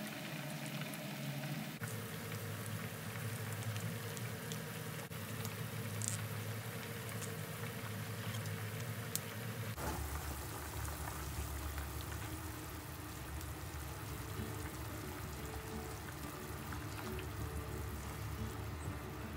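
Chicken and broth simmering in a frying pan: steady bubbling with occasional small pops.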